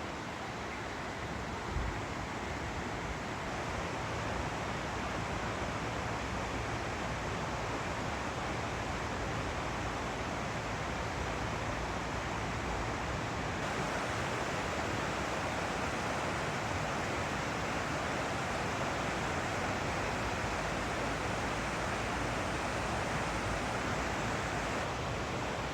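Water rushing steadily, as of a mountain stream, a little brighter from about halfway through, with one short thump about two seconds in.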